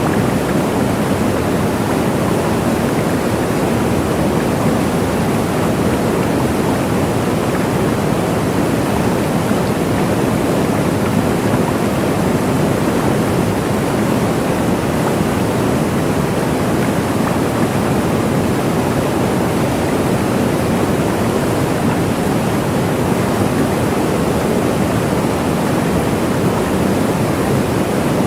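Waterfall: a steady, full rush of falling water, unchanging throughout.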